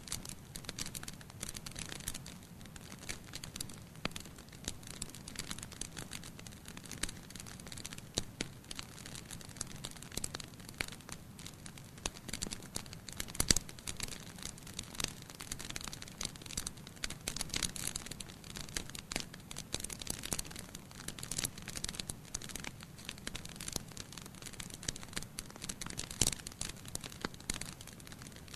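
Wood fire burning in a fireplace, crackling: a steady hiss with many irregular sharp pops and snaps, one loud pop about halfway through.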